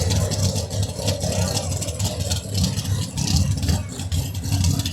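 A competition vehicle's engine running, with a low, uneven pulse throughout.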